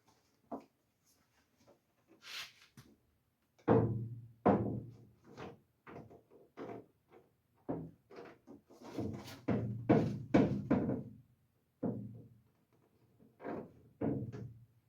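Steel truck fender clunking and knocking against the body as it is wrestled into place on its bolts: a run of hollow metal knocks with a short ring after each, thickest from about four seconds in. A brief scrape comes just before them.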